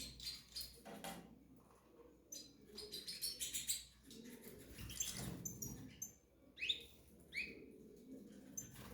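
Small cage birds chirping and calling: many short high chirps and quick trills, with two clear falling whistled notes near the end.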